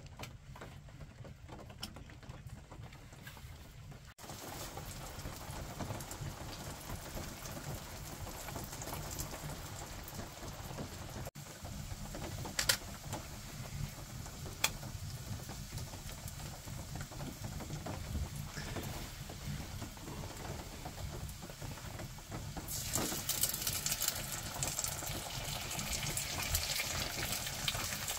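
Slices of luncheon meat sizzling in a cast iron skillet, with a couple of sharp clicks from the fork against the pan as they are turned. Near the end the sizzle grows louder and brighter as eggs go into the hot fat.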